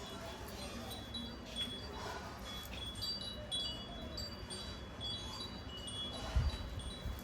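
Chimes tinkling: short, high ringing notes at irregular intervals over a low rumble, with a low thump near the end.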